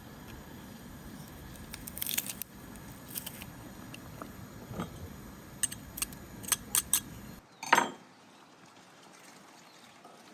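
A series of light clicks and clinks over a low steady rumble. The rumble stops abruptly about seven and a half seconds in, just before a louder knock.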